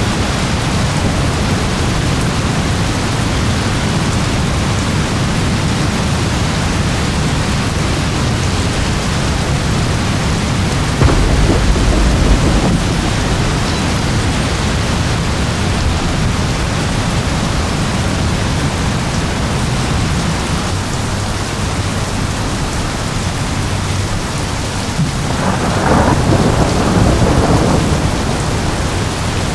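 Steady heavy rain with rolling thunder: a deep rumble swells about a third of the way in and again, longer, near the end.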